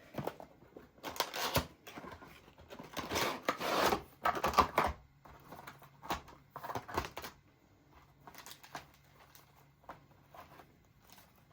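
Model train car's box and packaging being opened by hand: rustling, scraping and tearing with sharp clicks. It is busiest in the first five seconds, then thins to occasional clicks and taps.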